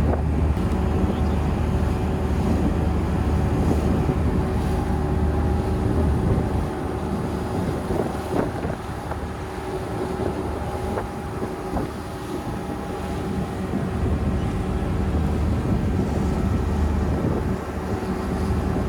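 A steady engine hum with wind rushing on the microphone, a little weaker in the middle stretch.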